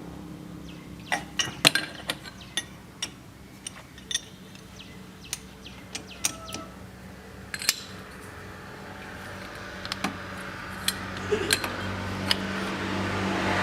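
Metal tools and parts clinking and tapping in scattered, irregular knocks, over a low steady hum that grows louder near the end.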